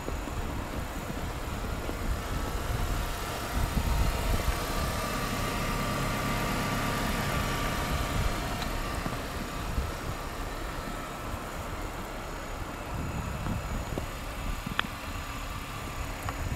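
Motor vehicle traffic running, with one vehicle growing louder from about four seconds in and fading again after about nine seconds.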